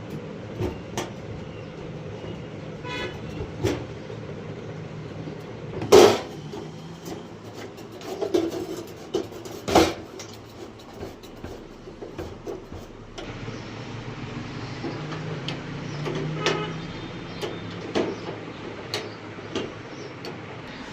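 Scattered knocks and clicks over a steady low hum, with a short horn-like toot about three seconds in and two louder knocks around six and ten seconds in.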